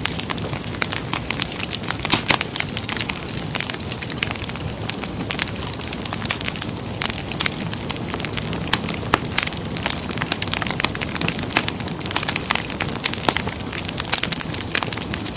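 Wood fire crackling in a fireplace: a steady hiss and low rustle of flames, broken by frequent sharp, irregular pops and snaps from the burning logs.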